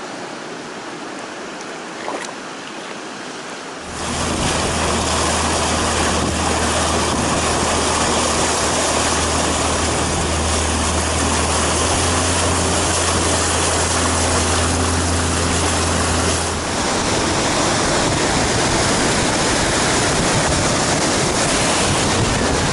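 Rushing river water on the Colorado River, a steady roar that turns suddenly much louder about four seconds in. A steady low hum runs under it from then until about sixteen seconds in.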